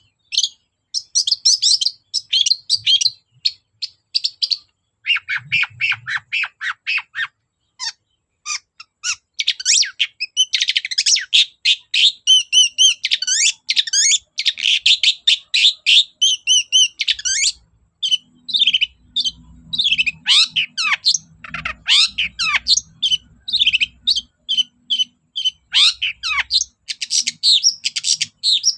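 Long-tailed shrike in full song: rapid runs of high, scratchy chattering and sweeping notes in bursts, with short pauses between them.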